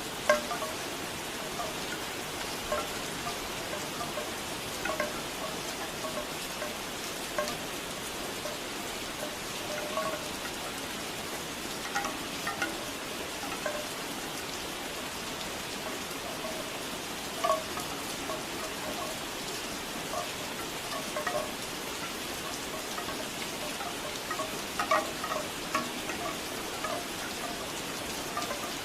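Steady rain hissing, with bamboo wind chimes clonking in scattered, irregular clusters of hollow wooden tones.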